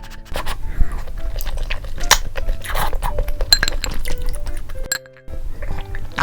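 Utensils clinking repeatedly against dishes, with brief liquid sloshing sounds, over light background music.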